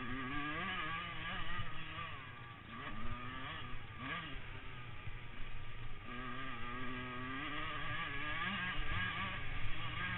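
Motocross bike engines revving, the pitch climbing and dropping several times as the bikes accelerate and shift.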